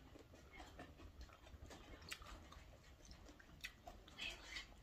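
Faint mouth sounds of eating: soft chewing with a few scattered clicks and lip smacks, in near silence.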